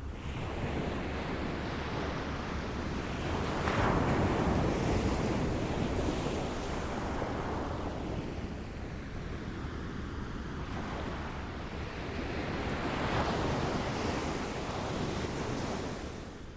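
Waves lapping on a shore: a continuous wash of water that swells as a wave comes in about four seconds in, then again about nine seconds later.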